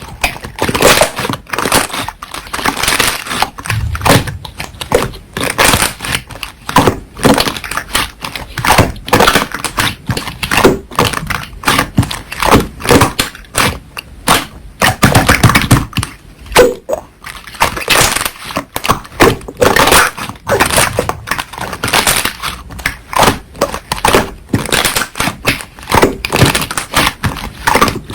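Slime being squished and worked by hand, giving a fast, irregular run of sticky clicks, crackles and pops.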